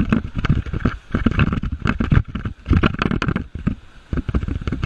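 River rapids splashing and rushing around a raft, with uneven heavy rumbling gusts on the microphone.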